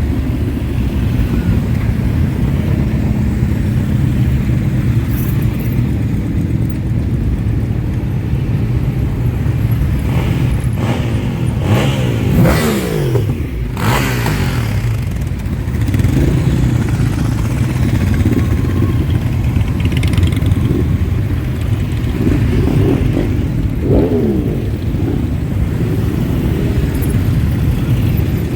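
A parade of many motorcycles riding past, their engines making a steady low rumble. Several bikes rev and sweep past with pitch rising and falling, most clearly about halfway through and again near the end.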